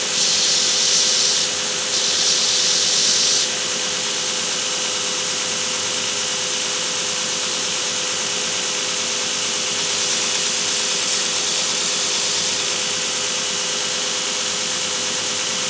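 Belt grinder running with a steady hum and hiss, sanding a small wooden hammer handle to chamfer its bottom edge. Two short, louder grinding passes come in the first three seconds, then the belt runs on with lighter contact, rising a little again around ten seconds in.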